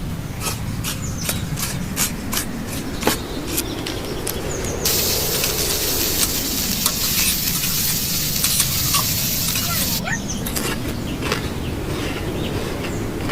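Kitchen cooking sounds: light clicks and taps of utensils, then about five seconds in a loud sizzling hiss that starts abruptly and cuts off suddenly about five seconds later, followed by more clicks.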